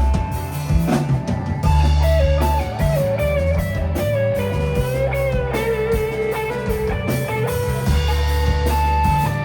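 Live rock band in an instrumental break: an electric guitar plays a lead line with bending, sliding notes over bass and drum kit.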